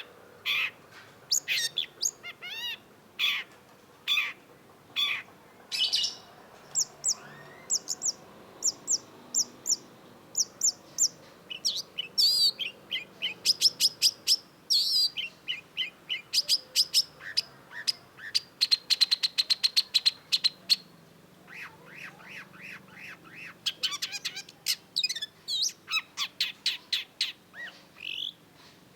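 Long-tailed shrike singing a long, varied song of short, sharp high notes and chattering phrases, with a fast, even trill about two-thirds of the way through.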